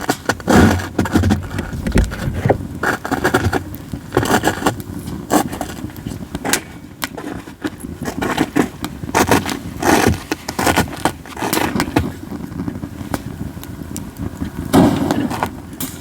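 Campfire of katsura wood burning: constant irregular crackling with frequent sharp, loud pops, over a low steady rumble of the flames.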